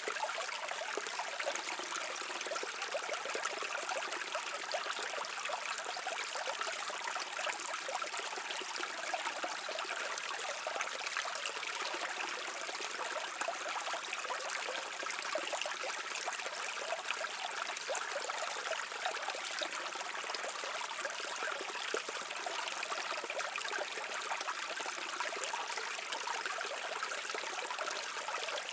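Brook water flowing and babbling steadily, a continuous even rush with no pauses or single events.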